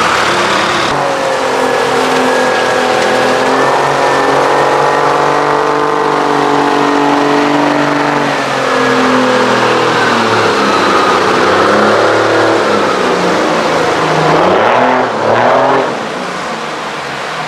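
Diesel engine of a big truck running hard, its pitch rising and falling several times as it is revved or worked through the gears, then dropping away about a second and a half before the end.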